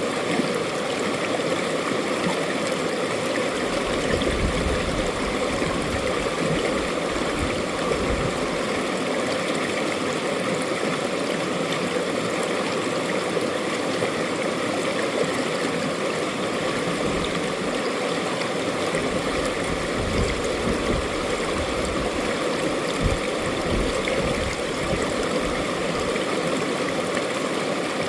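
A mountain valley stream rushing and burbling over rocks, a steady, continuous water sound.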